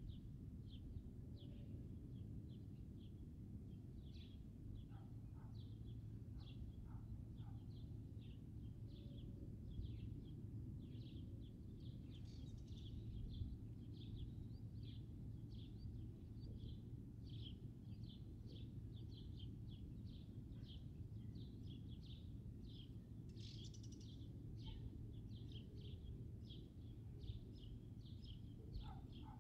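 Small birds chirping: many short, high calls repeated quickly, over a faint steady low background rumble.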